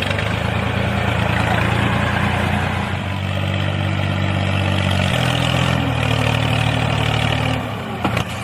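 A motor or engine running with a steady hum, stepping to a different pitch twice before it cuts off near the end.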